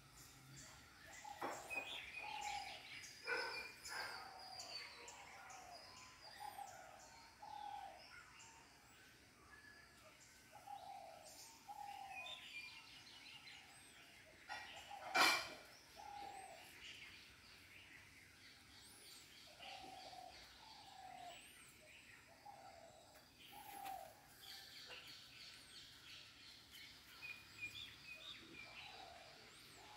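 Birds calling: short mid-pitched calls repeated in twos and threes over and over, with higher chirps among them. One sharp click about halfway through.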